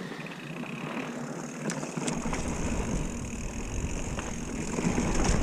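Mountain bike rolling along a dirt trail: steady tyre and drivetrain noise with scattered clicks and rattles. A deep rumble joins about two seconds in, and the noise grows louder toward the end.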